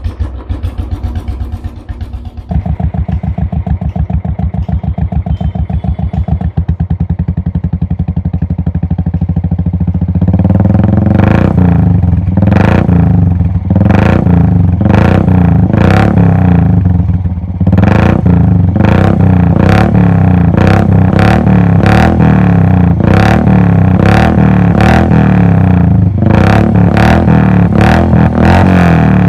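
Royal Enfield Bullet's single-cylinder engine running through a very loud Globe DND aftermarket exhaust. It idles with a steady, even thump, then from about ten seconds in turns much louder, with repeated sharp cracks from the exhaust a little more than once a second as the throttle is worked.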